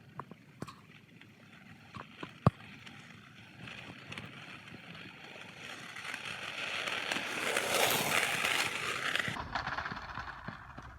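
RipStik caster board wheels rolling on pavement with a rushing sound that grows louder, peaks about eight seconds in and then cuts off suddenly. A few knocks come before it, the sharpest about two and a half seconds in.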